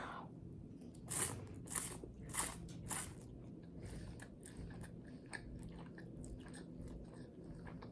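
Chewing crunchy garlic bread: four loud crunches about half a second apart, starting about a second in, then softer chewing.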